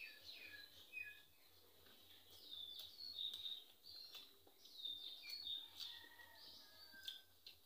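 Birds chirping faintly: many short, high chirps, each falling in pitch, with a few faint clicks.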